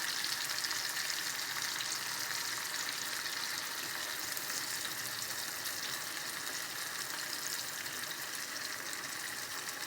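Spice paste frying in butter in a pan, a steady sizzle.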